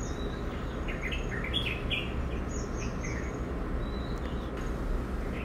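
Small birds chirping in short high calls, a few of them quick falling notes, over a steady low background hum.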